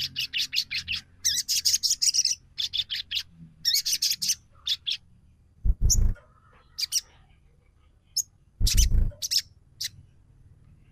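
A sogon songbird calling in fast staccato bursts of short, high chirping notes, the rapid 'trotol' call used to lure and provoke other sogons into singing. Two louder low thumps come about six and nine seconds in.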